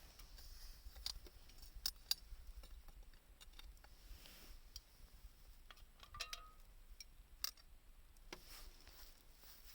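Small wood fire burning in a homemade can secondary-combustion stove: faint, irregular crackles and snaps, with the sharpest pops about two seconds in and again past the middle.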